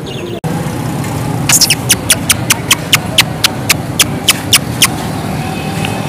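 A bird calling a rapid run of short, sharp high notes, about four a second for three or four seconds, over a steady low background rumble.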